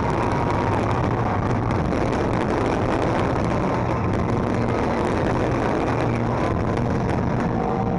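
Finale barrage of low-level fireworks, many small shells bursting and crackling at once, merging into a dense, steady rumble.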